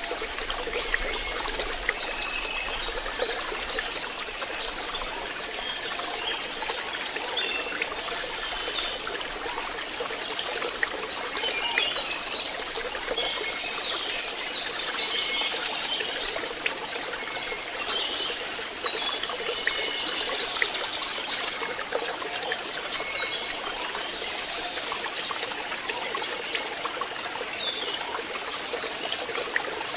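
Water steadily trickling and splashing into a fish pond.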